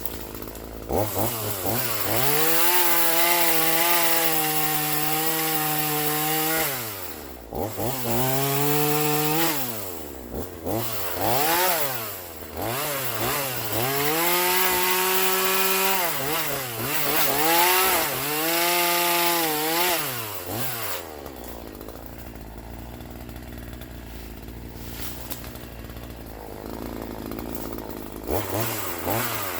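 Troy-Bilt TB4218 42cc two-stroke chainsaw revved to full throttle in several bursts, the pitch falling back between them. It idles low for several seconds near the end, then revs up again.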